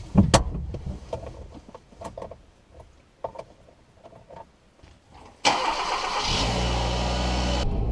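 Small clicks and handling noises inside a car, then about five and a half seconds in the car's engine is started: a loud burst of cranking as it catches, settling into a steady idle.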